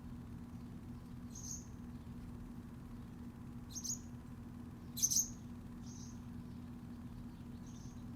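Short, high bird chirps, the sharpest about a second and a half, four and five seconds in, with fainter ones between, over a steady low hum.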